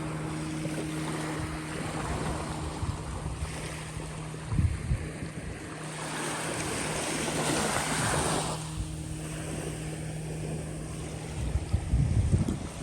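Small bay waves washing onto a beach, with one wave swelling and breaking around the middle. Wind gusts buffet the microphone in low rumbles, strongest near the end. A steady low hum runs underneath.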